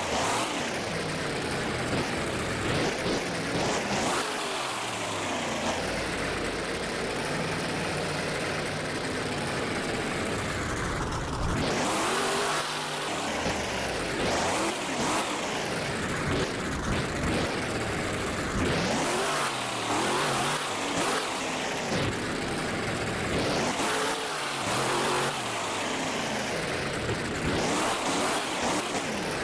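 Monster truck engine revving hard again and again, its pitch rising and falling over and over through a freestyle run.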